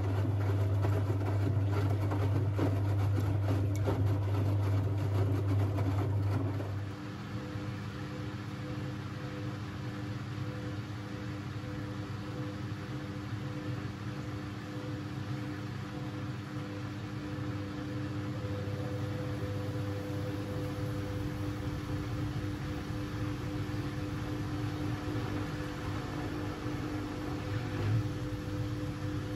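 Siemens Siwamat 6143 washing machine running during a boil wash. A loud low hum with a rough, rushing texture cuts off about seven seconds in, leaving a quieter, steady motor tone that runs on.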